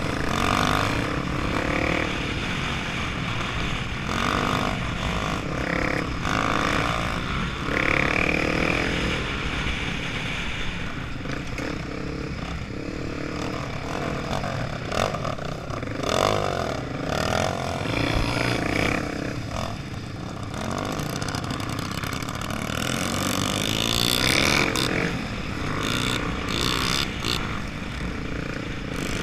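Honda Tornado 250's single-cylinder four-stroke engine running under load, its pitch rising and falling again and again as it revs and changes speed, over steady wind rumble.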